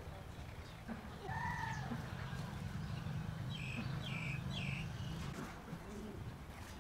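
Short bird calls over a low steady rumble: a pitched call about a second and a half in, then three quick chirps around four seconds in.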